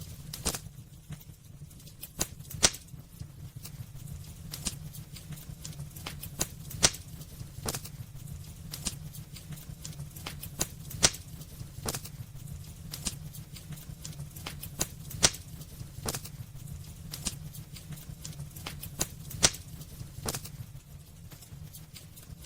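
Wood fire burning in a fireplace, crackling with irregular sharp pops and snaps, a handful of them much louder than the rest, over a steady low rumble.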